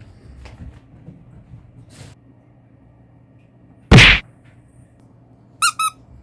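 A loud thump about four seconds in, then two short high-pitched squeaks in quick succession near the end, with a few faint clicks before.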